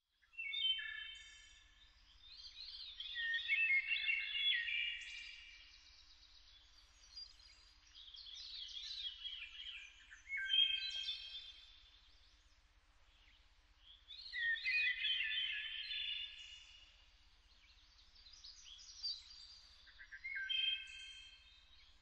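Bird song: rapid warbling, chirping phrases of one to three seconds each, repeated with short pauses between.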